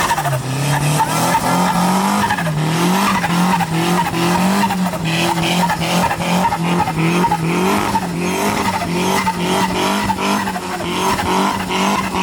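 Extreme off-road 4x4 competition vehicle's engine running loud and revving in repeated surges, its pitch rising and falling over and over, each surge lasting roughly under a second.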